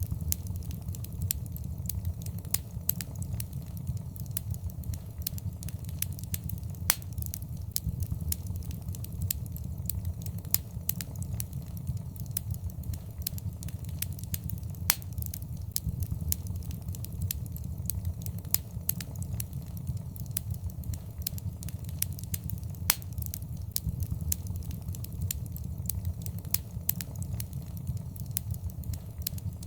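Wood fire crackling in a fireplace: a steady low rumble of burning, with irregular sharp pops and snaps throughout and a few louder ones standing out.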